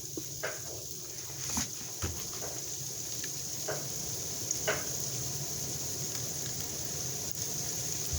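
Steady snowstorm wind noise, with a low rumble underneath and a few faint scattered ticks.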